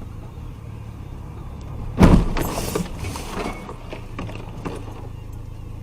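A vehicle collision: a sudden loud crash about two seconds in, followed by a second or so of clattering and a few smaller knocks, over the steady low hum of a car's running engine.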